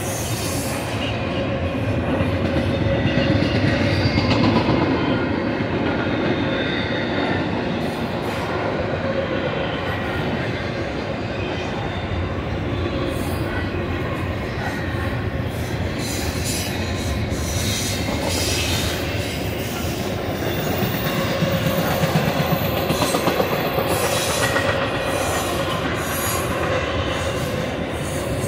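Union Pacific double-stack intermodal well cars rolling past, a steady loud rumble of steel wheels on rail with scattered clicks and clanks from the wheels and cars.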